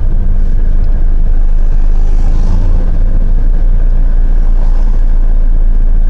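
Loud, steady low rumbling noise with no distinct events.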